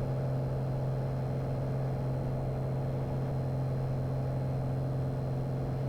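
Light propeller plane's piston engine and propeller droning steadily in the cockpit during climb-out after takeoff: a constant low hum with no change in pitch.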